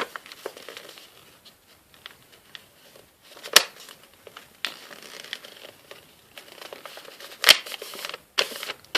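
Paper crinkling and rustling as a sheet is folded and creased into a paper airplane, with two sharp clicks, one a few seconds in and one near the end.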